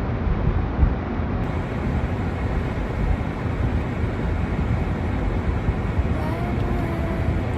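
Steady low rumbling noise with a hiss above it and small irregular bumps, and a faint held tone coming in about six seconds in.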